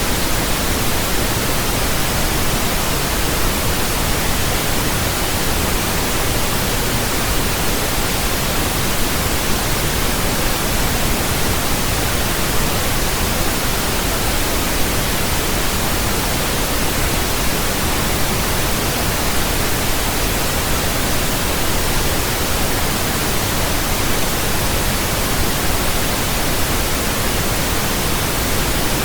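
Steady synthetic pink noise: an even, unchanging hiss with a deeper, rumbly low end than white noise.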